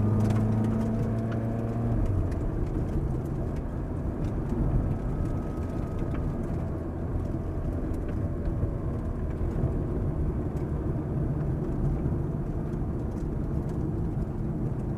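Ferrari F430's V8 engine running as the car laps the track, heard from inside the cabin together with road noise. A steady engine tone in the first two seconds gives way to a rougher, noisier sound.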